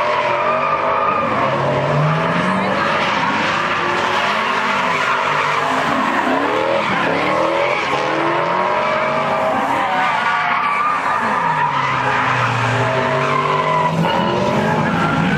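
Car engines revving up and down again and again over a continuous hiss of tyres skidding and squealing, as cars are spun in donuts.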